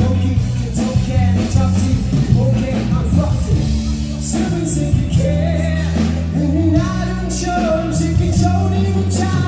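Live band playing a rock-style song, a singer over bass and drums.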